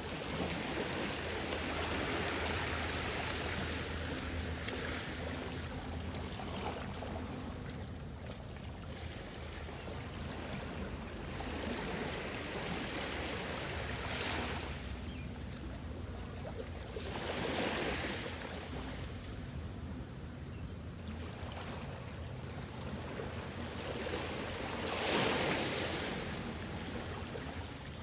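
Soft ocean waves washing onto the shore, swelling in a series of surges a few seconds apart, the loudest near the end.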